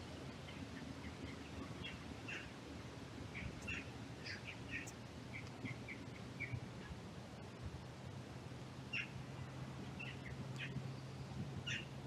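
Small birds chirping, short high calls scattered through, over a low steady hum that grows stronger in the second half.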